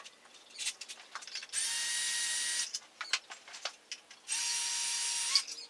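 Cordless power drill or driver running in two short bursts of about a second each, with small clicks and taps of handled tools and parts between.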